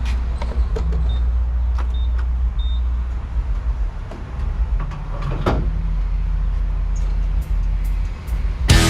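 Truck engine running with a steady low rumble. Three short high beeps come about one to three seconds in, with a few scattered clicks.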